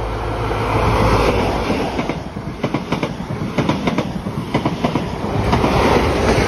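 A High Speed Train with Class 43 diesel power cars passing close by at speed. It swells loud as the leading power car goes by, then the coaches' wheels clatter quickly over the rail joints, and it swells again as the trailing power car passes near the end.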